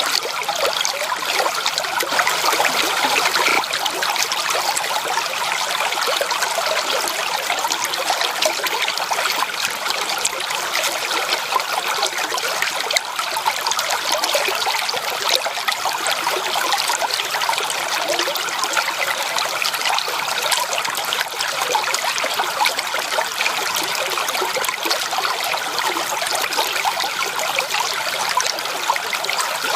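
Flowing water running steadily, an even rush with constant fine splashing.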